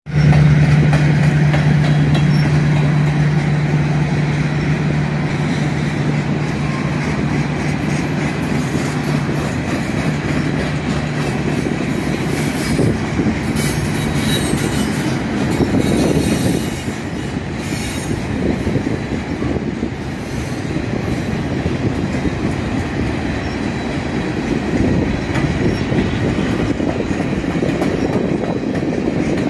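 Freight train of boxcars rolling past close by: a continuous rumble of steel wheels on the rails. A steady low hum runs through the first half and fades out, and brief high wheel squeals come around the middle.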